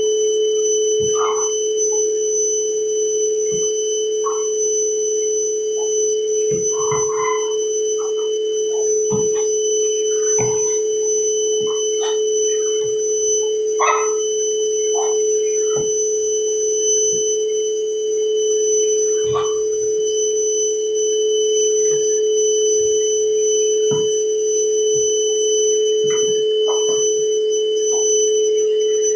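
Vacuum cleaner running steadily with a constant motor hum and high whine, with scattered short clicks and rattles as dirt and grit are sucked up off a subfloor.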